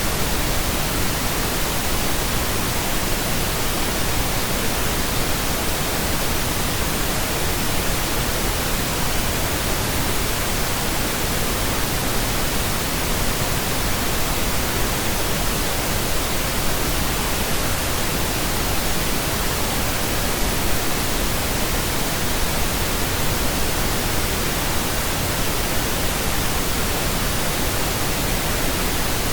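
Steady synthetic pink noise: an even, unchanging hiss spread across the whole range from deep to high, with no tones or events.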